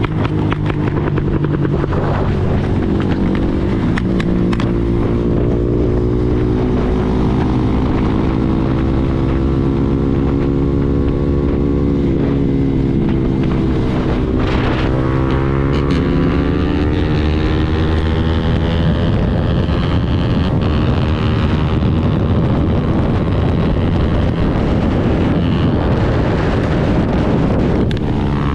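KTM Duke 390's single-cylinder engine running through an Arrow full-system exhaust at highway speed, the note holding fairly steady, then dropping in pitch about halfway through and climbing again as the throttle is opened. Wind rushes over the microphone.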